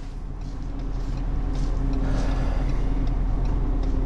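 A car's engine and road noise heard from inside the cabin, building up over the first second or so as the car pulls away, then holding steady.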